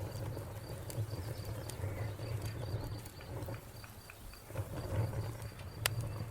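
Wood fire crackling: a steady low rumble of flames with scattered sharp pops, the loudest near the end. A cricket chirps behind it in a steady run of short, even pulses.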